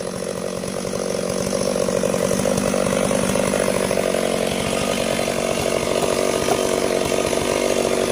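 Two-stroke chainsaw running steadily at high speed while cutting sengon timber. It builds a little over the first two seconds and then holds level.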